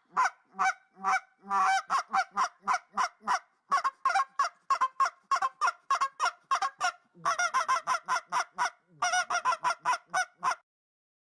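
A bird's loud honking calls, repeated rapidly at about two to three a second in several bouts, stopping about ten and a half seconds in.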